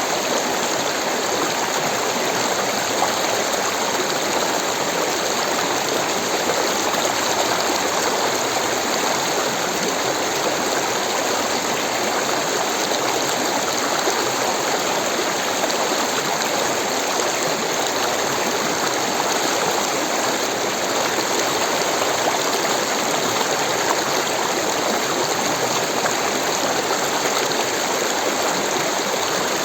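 Rushing water of a stream, flowing steadily with no change in level.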